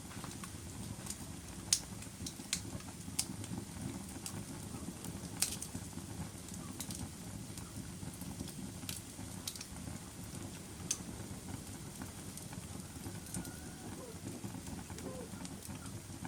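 Wood fire burning in a fireplace: a steady low rush of flames with sharp crackles and pops at irregular intervals, the loudest pops about two seconds and about five seconds in.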